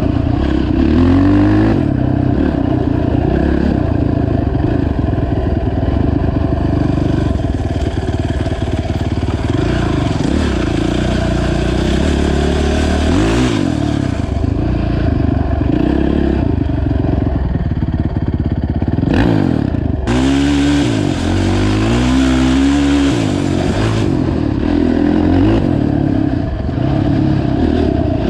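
Honda TRX450 ATV's single-cylinder four-stroke engine running under load on a trail, its revs rising and falling repeatedly with the throttle. About nineteen seconds in it briefly drops off, then revs back up.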